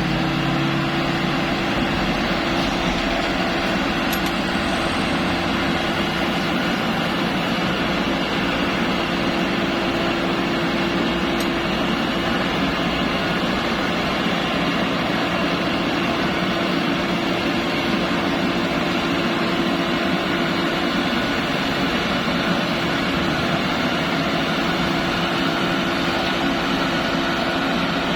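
Bimo Plus rice threshing machine running steadily under its engine, a constant droning hum with a steady mid-low tone over a dense mechanical rush.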